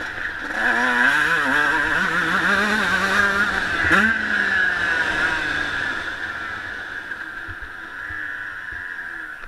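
Honda CR125 two-stroke motocross bike engine revving up and down as it is ridden, with a sharp rev about four seconds in. It grows quieter over the last few seconds.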